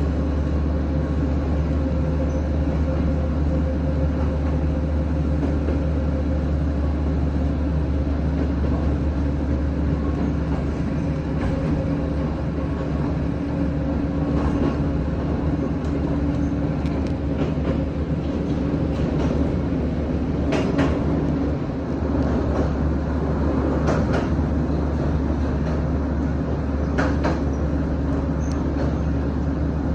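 Toyama Chiho Railway electric train running, a steady low rumble with a few sharp clicks partway through.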